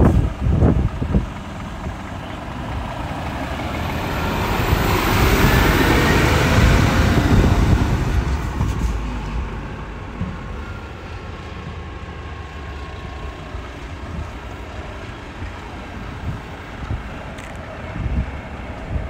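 Low, steady vehicle rumble with a noisy swell that builds, peaks and fades away over several seconds, like a vehicle passing by. Wind buffets the microphone at the start and near the end.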